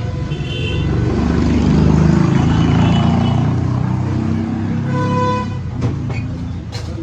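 Road traffic passing close: a heavy vehicle's engine rumble swells and fades over a few seconds, with a vehicle horn tooting about half a second in and again about five seconds in.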